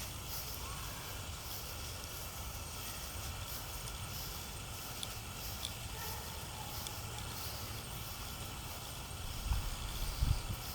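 Wind buffeting the microphone outdoors: a steady low rumble with light hiss, and a few louder low bumps near the end.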